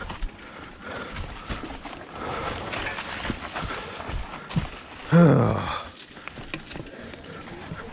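Mountain bike rattling over a rough, rocky trail with tyre noise and scattered knocks. About five seconds in the rider gives a short groan that falls in pitch.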